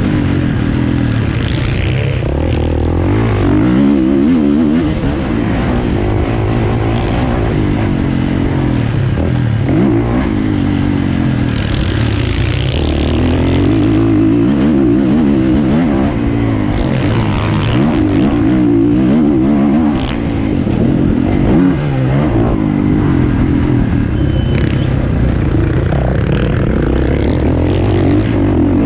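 450cc motocross bike engine revving hard and falling off again and again as the throttle opens and shuts, its pitch climbing and dropping every second or two, with rattle and wind noise over it.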